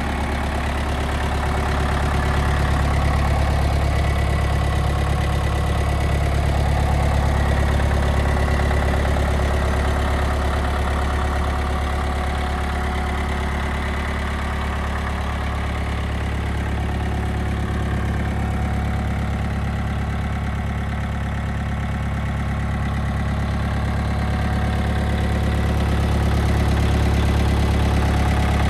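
Mitsubishi MT27 compact tractor's four-cylinder diesel engine running steadily, with a low, even drone and slight swells in loudness.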